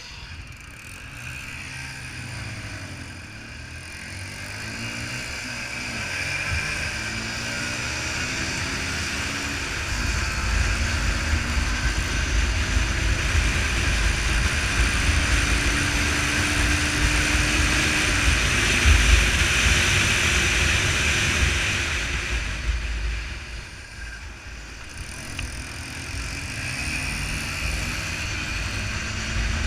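Motorcycle engines running and moving past, their pitch rising and falling as they rev and pass. A strong low rumble builds through the middle, fades a little past the two-thirds mark, then picks up again near the end.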